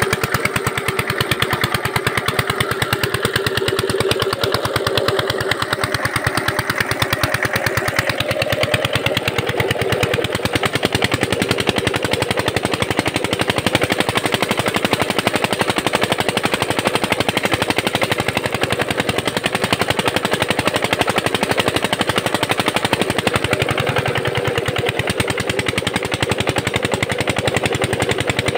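Field Marshal 8 HP single-cylinder diesel pump-set engine running steadily, a rapid, even chug of exhaust beats.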